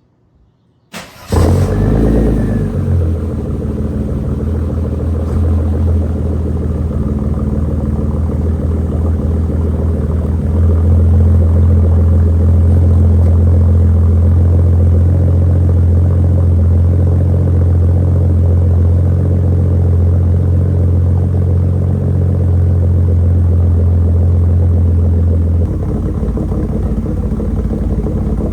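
Exhaust of a 1988 Mercedes-Benz 300CE's M103 inline-six running with the middle and rear mufflers deleted and only the resonator left. It comes in abruptly about a second in, then holds a steady deep drone, a little louder from about ten seconds in until shortly before the end.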